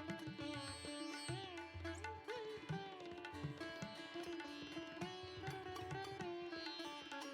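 Background instrumental music in Indian classical style: a plucked string melody with sliding, bending notes over a steady drone, with low drum strokes underneath.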